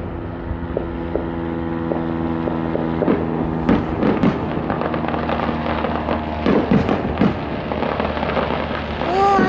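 Fireworks display: scattered bangs and crackles from bursting shells, over a steady droning tone that fades out about seven seconds in.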